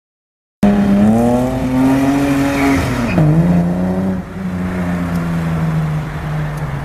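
A car engine running hard at high revs, cutting in suddenly; its pitch climbs slowly, dips sharply about three seconds in, then holds steady.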